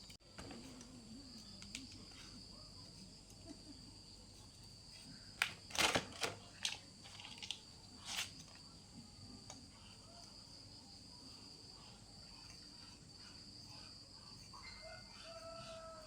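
Faint steady high-pitched insect drone, with a few sharp clicks and knocks about six and eight seconds in.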